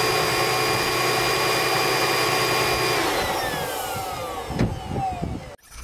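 Car engine idling smoothly with all its ignition coils connected, then shut off about three seconds in: its hum falls in pitch and dies away with a few last shudders. The sound cuts off suddenly near the end.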